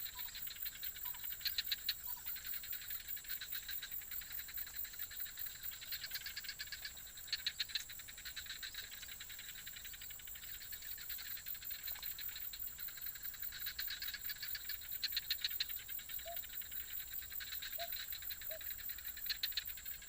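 Chorus of frogs and insects: rapid pulsed trills rising in bouts every few seconds over a steady high-pitched insect whine, with a few faint short chirps.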